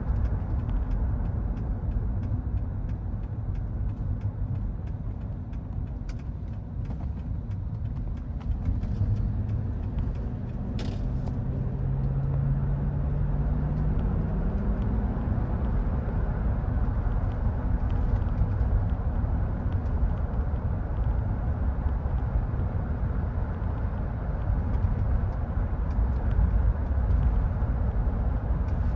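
The 2000 Mercedes-Benz E430's V8 running with a steady low rumble. About twelve seconds in, a brief pitched engine note rises a little, and a single sharp click comes just before it.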